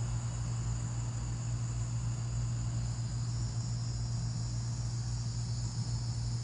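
Steady high-pitched chorus of night insects such as crickets, trilling without a break, over a steady low hum.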